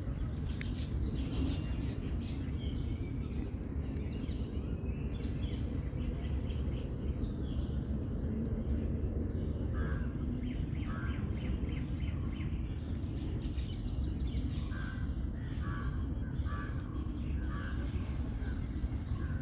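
Birds calling over a steady low rumble of outdoor background noise. Scattered high chirps come first; from about halfway there is a run of short repeated calls, roughly one a second.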